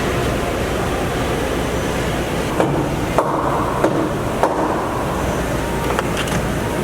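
Steady workshop background noise with four sharp metallic clanks, about half a second apart, near the middle, some leaving a short ring.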